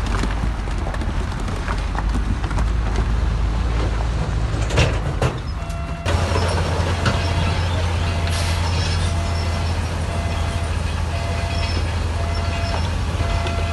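Heavy diesel construction machinery running steadily with a deep engine drone. About six seconds in, the sound changes abruptly to a stronger low drone, joined by a short beep that repeats a little more than once a second.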